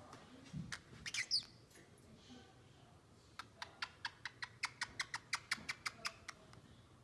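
Pacific parrotlet giving a short chirp, then a rapid, even run of about fifteen sharp clicks, roughly five a second.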